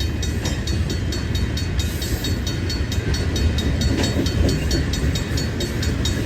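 Freight train rolling slowly past, a steady heavy rumble of wheels on rail. Over it, a crossing bell rings in a fast, even rhythm while the gates are down.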